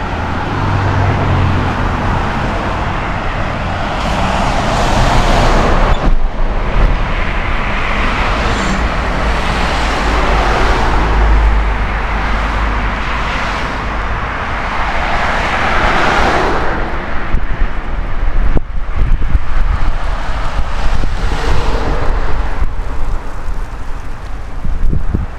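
Road traffic on a busy street: cars passing one after another, each swelling and fading, over a constant low rumble.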